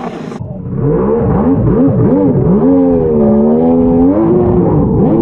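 Jet ski engine revving up and down as the throttle is worked: several quick rises and falls in pitch, then a longer dip and climb before it settles to a steady pitch near the end.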